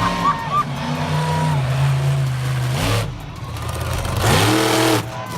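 Monster truck engine running loud and revving, holding steady revs, then dropping off and revving up and back down again about four seconds in.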